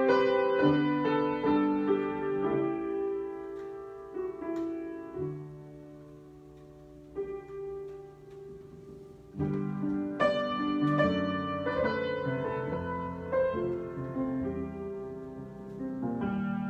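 Solo piano improvisation: slow, sustained chords that thin out to a few quiet held notes midway, then return with fuller, louder chords about ten seconds in.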